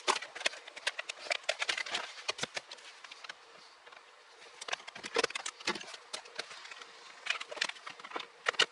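Plastic interior trim panels and their clips being pried off and handled: rapid clicking, snapping and knocking in three bursts, with a quieter pause in the middle.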